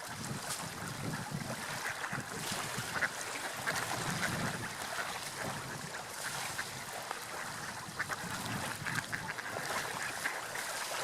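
Gulls calling repeatedly over a steady wash of sea waves and wind.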